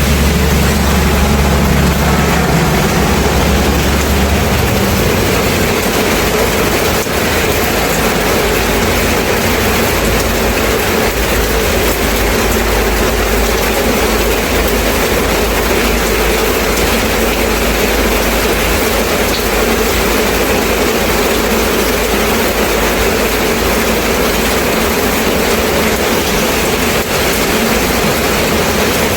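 Steady rain, a dense even hiss, with a low rumble underneath that changes about four seconds in.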